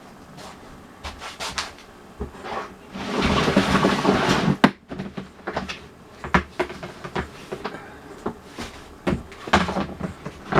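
Gear being handled: a loud rustling swish for about a second and a half, starting about three seconds in and cutting off suddenly, with scattered knocks and clunks before and after.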